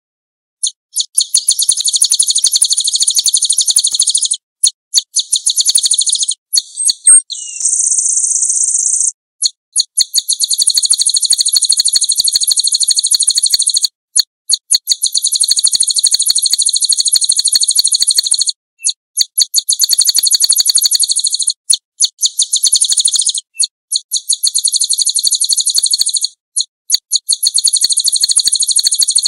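Small songbird singing a series of long, rapid, high trills, each lasting a few seconds with brief breaks between them, and a single steady high whistle about seven seconds in.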